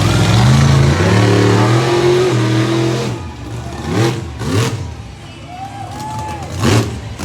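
Monster truck engine revving: the pitch climbs steadily for about three seconds, then drops back, followed by three short sharp blips of the throttle.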